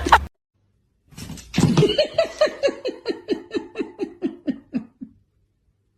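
A person laughing in a run of short, high-pitched 'ha' sounds, about four a second, the pitch sliding lower as the laugh goes on. It starts about a second in and dies away near the end.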